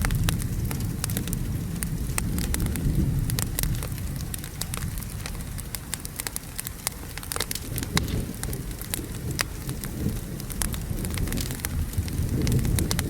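Wood fire crackling with many sharp, irregular pops, over steady rain and a low thunder rumble. The rumble eases in the middle and builds again near the end.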